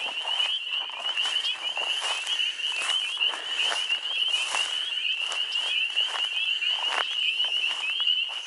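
A dense chorus of frogs singing for mates: many overlapping, quickly repeated high-pitched calls at one pitch, with scattered short clicks.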